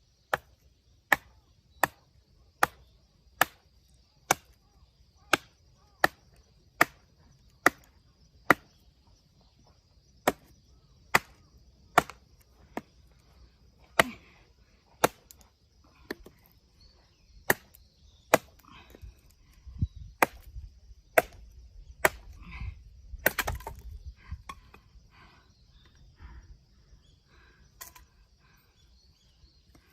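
A nata (Japanese hatchet) chopping into firewood again and again: sharp knocks about every three-quarters of a second for the first nine seconds or so, then more spaced and irregular, with a burst of rustling and low rumble from handling the wood a little past two-thirds in.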